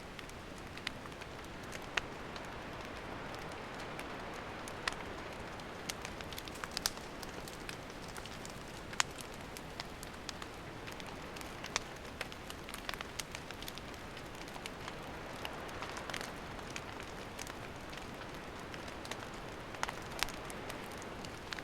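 Wood campfire burning: a steady hiss with irregular sharp crackles and pops from the burning firewood.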